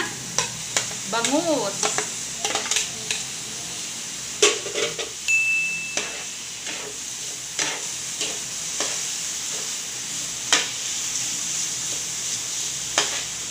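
Flaked milkfish and diced vegetables sizzling in oil in a frying pan, with a steady hiss, while a spoon stirs the mixture and scrapes and clicks irregularly against the pan.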